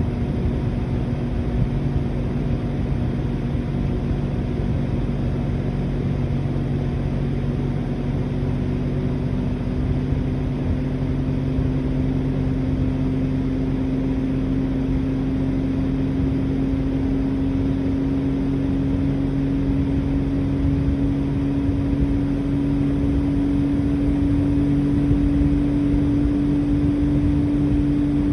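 Outdoor unit of a Mitsubishi Heavy Industries SRK56TX2 air conditioner running: the inverter compressor hums with a tone that slowly rises in pitch as it speeds up, over the steady rush of the outdoor fan and a lower steady hum.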